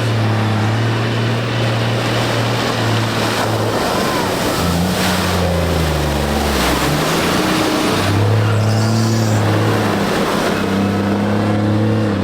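Tractor engines running steadily; for a few seconds in the middle the engine note drops lower and glides in pitch, then the steadier, higher note returns.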